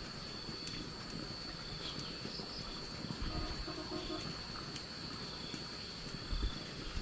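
Steady outdoor background with a continuous high-pitched insect-like drone and faint scattered chirps and ticks.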